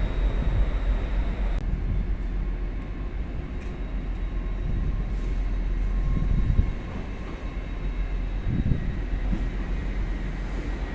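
Class 195 diesel multiple unit pulling away from the platform, a steady rumble of engine and wheels that eases a little about two-thirds of the way through.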